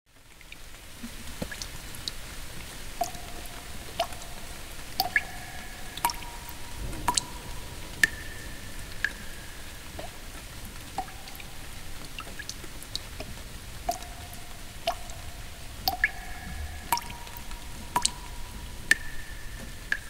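Water drops falling into water, irregular and about one or two a second, each a sharp drip followed by a short ringing plink at one of a few different pitches, over a faint low rumble. The sound fades in at the start.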